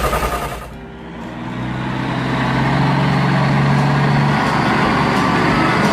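Motor vehicle engine sound, as in a car or truck. A whining tone cuts off just under a second in, then a rushing engine noise builds up and runs steadily, with a low hum for a few seconds.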